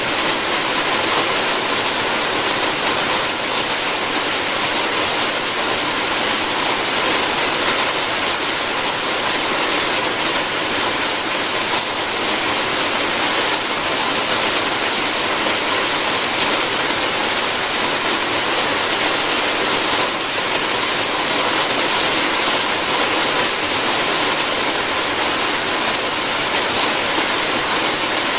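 Steady rain falling on a roof, an even, unbroken patter.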